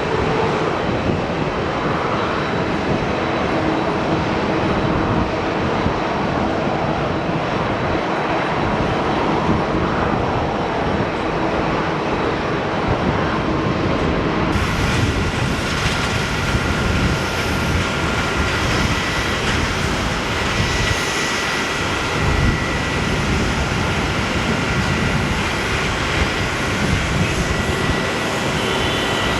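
Jet airliner engines, a loud steady rushing noise with faint steady whines. About halfway through the sound changes abruptly and becomes brighter.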